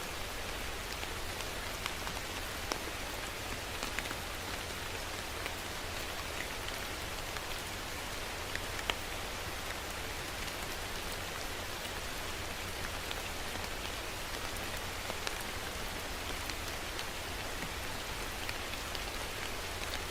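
Steady rain falling on a surface, a continuous hiss with individual drops ticking sharply at irregular moments throughout.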